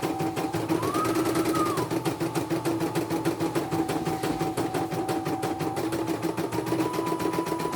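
Computerised embroidery machine stitching at a fast, even rate, its needle striking about a dozen times a second over a steady hum. A higher whine steps up in pitch and back down a few times.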